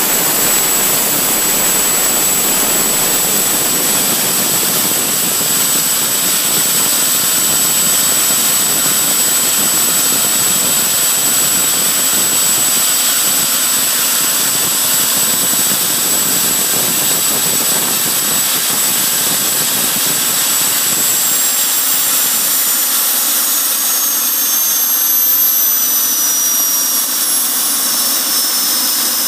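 Jet engine running steadily with a loud roar and a high turbine whine; about twenty seconds in the whine starts to fall in pitch and the low rumble drops away as the engine spools down.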